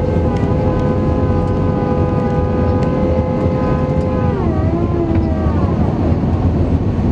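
Airliner jet engine noise heard inside the cabin: a loud steady rumble with a whine of several tones, whose pitch drops about four seconds in.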